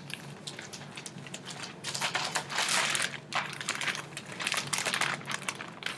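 Gift packaging rustling and crinkling as a present is unwrapped by hand, in irregular handling sounds that are loudest about two to three seconds in.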